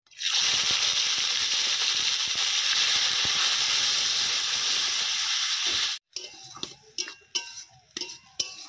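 A ladleful of wet red paste hits hot oil in a metal wok and sizzles loudly with steam, a steady hiss that cuts off sharply about six seconds in. After that come a few spatula scrapes and clicks against the pan.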